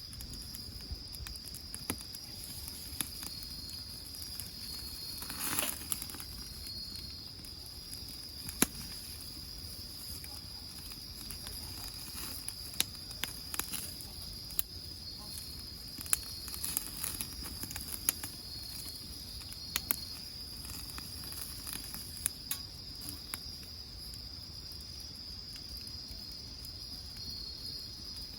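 Insects trilling steadily at a high pitch, with scattered sharp crackles and pops from a burning wood fire; one denser burst of crackling comes about five seconds in.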